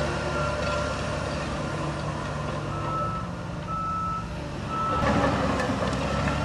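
A heavy earthmoving machine's reversing alarm beeping about once a second over its diesel engine running steadily. The engine noise grows louder about five seconds in.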